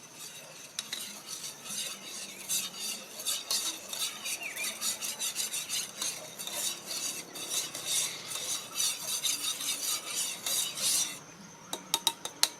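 A spoon stirring sugar into coffee in a cup: quick, continuous scraping strokes for about ten seconds, stopping near the end, followed by a few sharp clicks.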